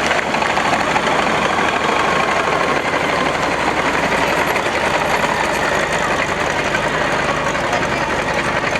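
A vehicle engine running steadily at a fast idle.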